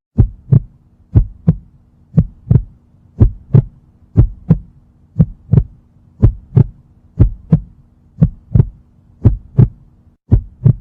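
Heartbeat sound effect: a steady lub-dub of paired low thumps, about one beat a second, over a faint low hum.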